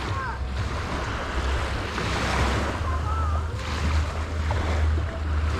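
Sea waves washing onto a sandy beach, swelling twice, with wind rumbling on the microphone.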